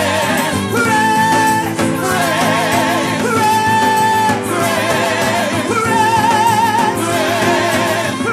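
Live gospel worship music: a band playing with voices holding long wavering notes in a repeating phrase.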